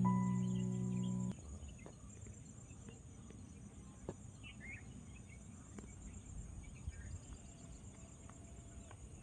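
Background music ends on a held chord that cuts off about a second in. It leaves a steady, faint, high-pitched pulsing trill of crickets or other insects over low wind rumble, with a few faint chirps.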